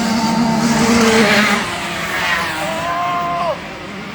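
Several small 65cc two-stroke motocross bikes running and passing, their engine notes rising and fading. About three seconds in, one rev is held briefly, then cuts off sharply.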